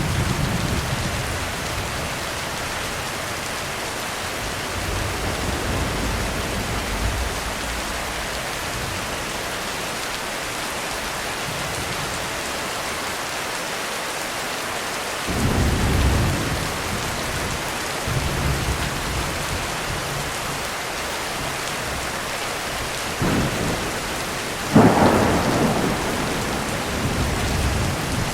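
Heavy rain falling steadily on a roof, with thunder rolling low several times. A sudden clap starts about halfway through, and the loudest, sharpest crack comes near the end.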